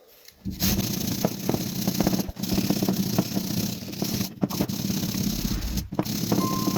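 An electric power tool running with a steady hum while grinding and scraping against metal, with a dense rattle of small clicks. It starts about half a second in and breaks off abruptly three times.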